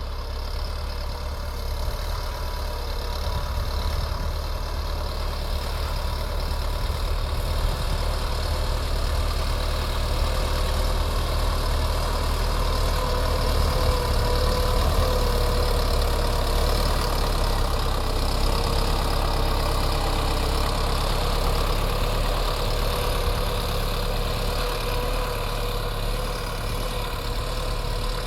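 Sonalika Tiger 65 DI CRDi tractor's common-rail diesel engine running steadily.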